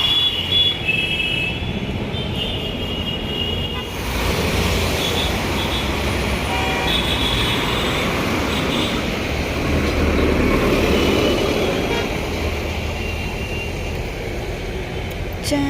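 Road traffic noise, a steady rumble of passing engines and tyres, with vehicle horns tooting in short clusters near the start and again about seven seconds in.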